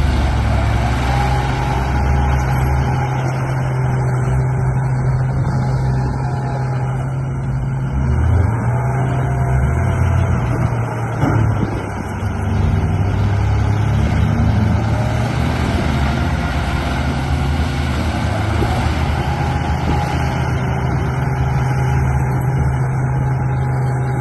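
Radio-controlled bulldozer running: a steady low engine-like drone, with fainter higher whines that rise and fall as it works.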